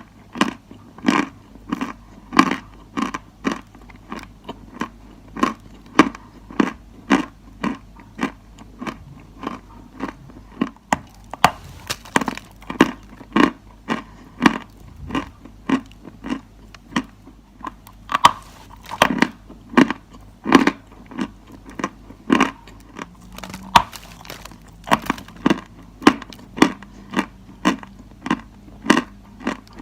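Dry chalk being crunched close to the microphone: a steady run of sharp, crisp crunches, about two a second, over a faint low hum.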